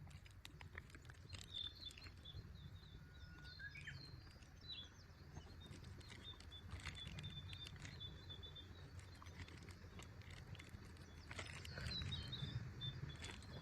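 Faint forest ambience: small birds chirping over and over, with a short rising call about three seconds in, scattered light clicks and a low steady rumble underneath.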